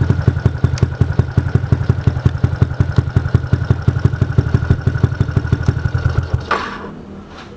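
Yamaha Jupiter MX 135 single-cylinder four-stroke engine idling through an aftermarket R9 exhaust silencer, with a steady, rapid train of exhaust pulses. About six and a half seconds in the engine stops, with a short clack, and the sound falls much quieter.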